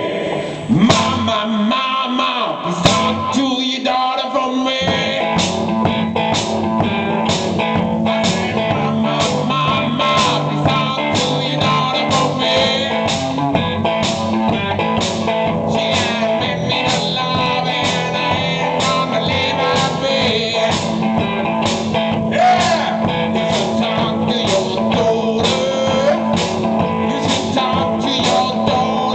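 Live blues music: guitar over a steady percussive beat, with singing. The full groove, with bass, sets in about five seconds in.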